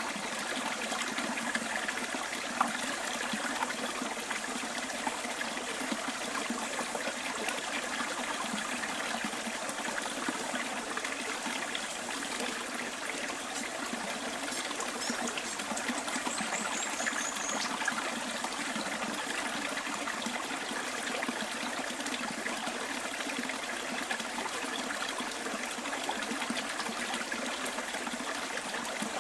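Small bush stream trickling steadily over its bed. About halfway through, a bird gives a brief run of high chirps that fall in pitch.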